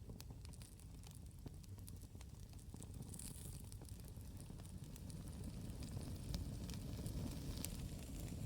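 Campfire crackling, with irregular sharp pops and snaps over a steady low rumble. A brief hiss comes about three seconds in.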